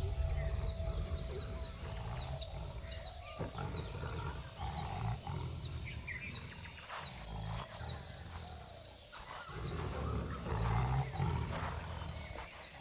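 Tigers giving deep, rumbling growls in repeated bouts several seconds long. A faint high chirp repeats about twice a second in the background.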